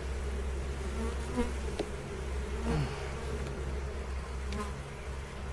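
Honey bees buzzing around an open hive, a steady hum with individual bees flying close past, and a couple of light clicks.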